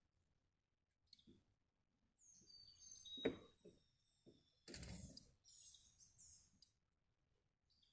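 Faint bird chirps and whistles, clustered in the middle, with two short dull knocks about three and five seconds in.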